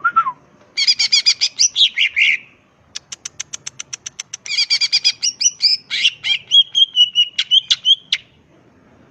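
Greater green leafbird (cucak ijo) singing a fast, varied song: rapid trilled phrases, then a run of quick even ticking notes about three seconds in, then more whistled and trilled phrases that stop about a second before the end.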